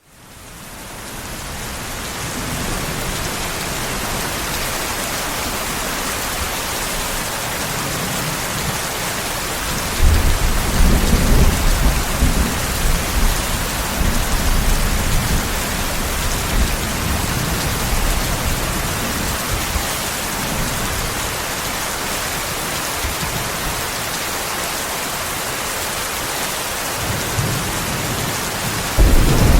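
Steady rain that fades in over the first couple of seconds. Thunder rolls low and long for several seconds from about a third of the way in, and again near the end.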